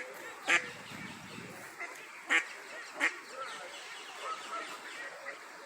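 Waterfowl honking: three short, loud calls about half a second, two and a half and three seconds in, over faint chirping of small birds.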